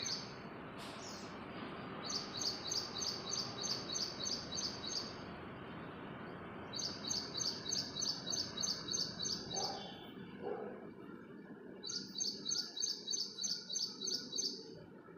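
A songbird singing a fast, even series of high chirps, about four a second, in three runs of roughly three seconds with short pauses between.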